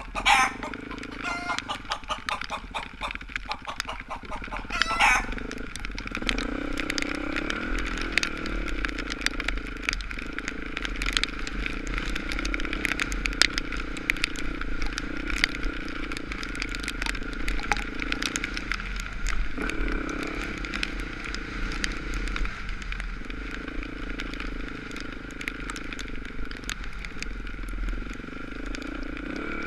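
Dirt bike engine running steadily on the ride, its note dipping briefly every few seconds.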